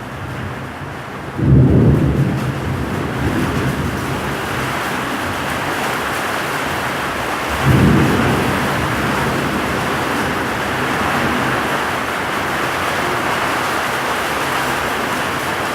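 Heavy rain falling steadily, with two sudden low rumbles of thunder, one about a second and a half in and another about halfway through.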